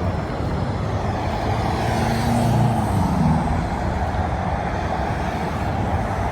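Highway traffic running steadily with engine rumble; a vehicle passes, swelling louder about two to three seconds in.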